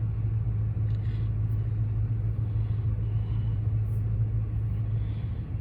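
2016 Dodge Challenger R/T's 5.7-litre HEMI V8 idling steadily, an even low hum.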